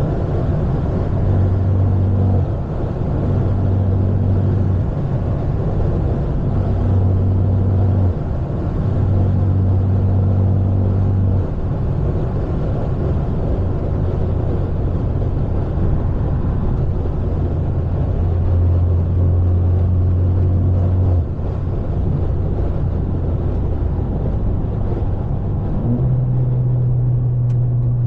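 Exhaust drone of a straight-piped, catless BMW 530 while driving: a loud low drone that swells and eases in stretches of a couple of seconds, stepping up a little in pitch near the end.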